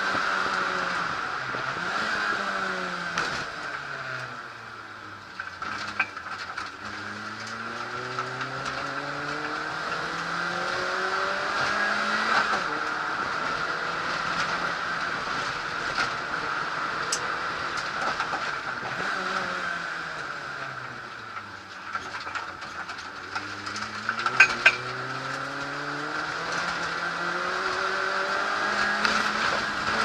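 Peugeot 106 rally car engine under hard use, its revs dropping and then climbing in long sweeps of several seconds, twice over. A few sharp knocks come about 24 seconds in.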